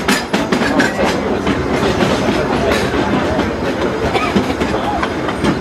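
Disneyland Railroad passenger car rolling along the track, its wheels clicking over the rail joints over a steady rumble.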